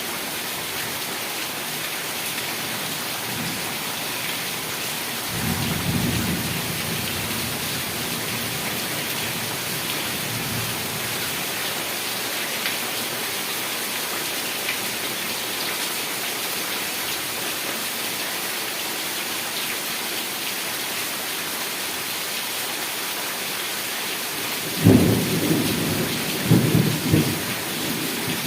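Heavy rain falling steadily, with a low roll of thunder about five seconds in and a louder, sudden burst of thunder cracking in several peaks near the end.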